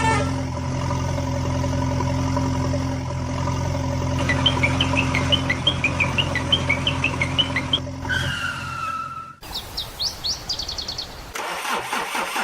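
A steady engine hum with birds chirping over it in the middle, then abrupt cuts to other short sounds, among them more quick chirps and a fast rhythmic rattle near the end.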